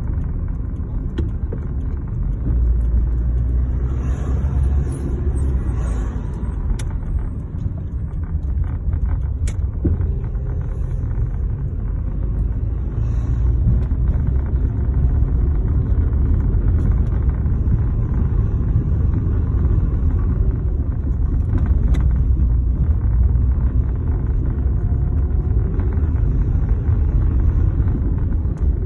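Chevrolet Lanos 1.5 driving, with a steady low road and engine rumble. A few sharp knocks come from the front of the car at irregular intervals: the periodic front-end knock the owner is trying to trace.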